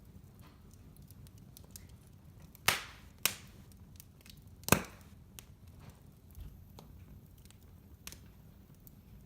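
Wood fire crackling in a fireplace over a low steady rumble, with scattered small snaps and three loud pops a few seconds in, the loudest a little before the middle.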